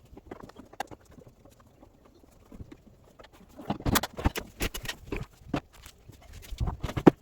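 Irregular clicks and knocks of washer parts and hand tools being handled during reassembly. They are faint at first, with louder clusters of knocks about four seconds in and again near the end.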